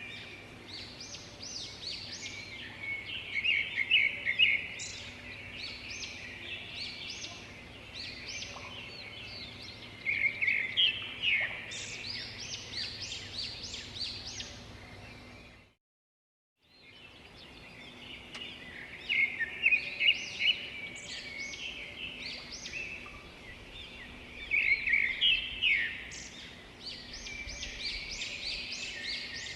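Birds singing and chirping: clusters of quick, high calls and trills every few seconds over a faint steady hum, broken by about a second of silence halfway through.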